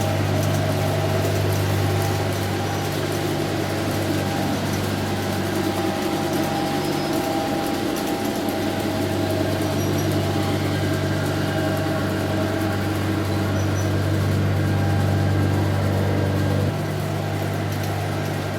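Large-scale garden model train running on its track: a steady low mechanical drone with a hum above it and a rattle of wheels, dropping a little in level near the end.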